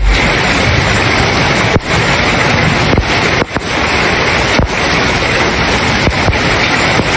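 Heavy rain mixed with hail pouring down in a thunderstorm: a loud, steady hiss, with wind rumbling on the microphone.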